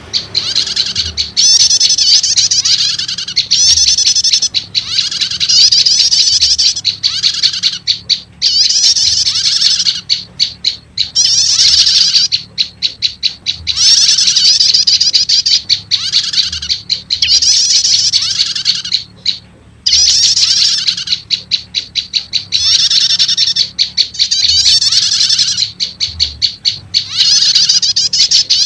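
Lure recording of prenjak lumut calls, a small Indonesian prinia-type warbler, mixed with prenjak 'stater' calls: loud, high, rapid chattering phrases of one to two seconds, repeating with short breaks. A faint low hum lies underneath.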